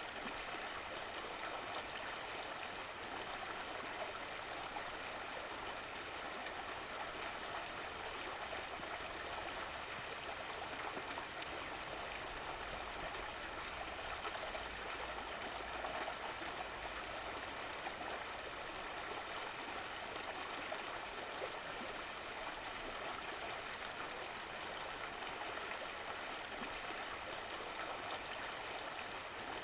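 Running water of a stream or brook, a steady burbling flow.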